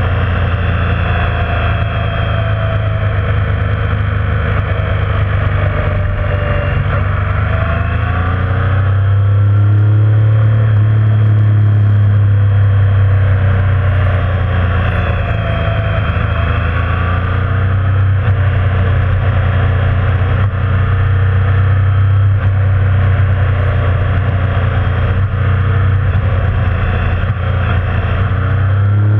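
Motorcycle engine running at road speed, the revs rising and falling as the bike rides on, over a steady rush of wind and road noise.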